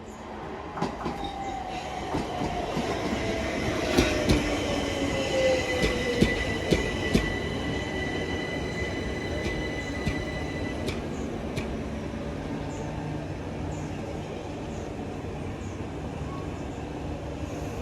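A train running on the rails, getting louder at first, with a whine falling in pitch over the first few seconds. Sharp clacks of wheels over rail joints come between about four and seven seconds in, and a high steady squeal stops about eleven seconds in.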